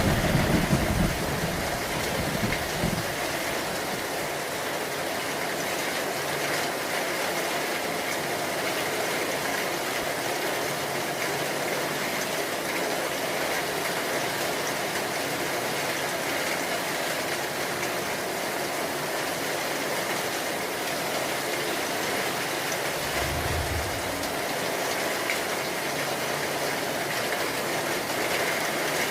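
Steady heavy rain. A low thunder rumble fades out in the first second or so, and a brief low rumble comes about 23 seconds in.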